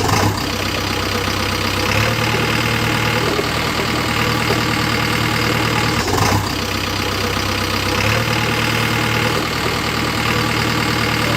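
Engine idling steadily, its low hum rising and dropping back every few seconds, with a short clatter about six seconds in.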